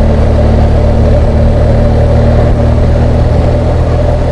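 BMW R1200GS Adventure's boxer-twin engine running steadily under way, heard through a helmet-mounted camera mic with wind hiss over it.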